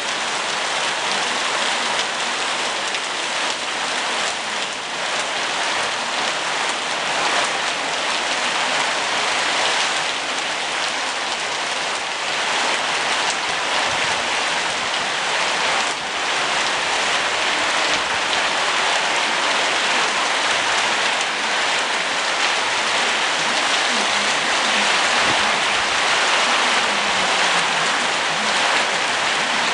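Rain falling steadily and loudly on surfaces, an even unbroken hiss.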